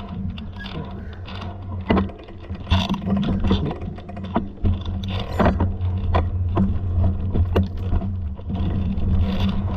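Irregular clicks and rattles over a steady low hum.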